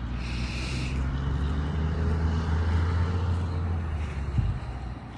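A motor vehicle engine running with a low steady hum that cuts off abruptly about four seconds in.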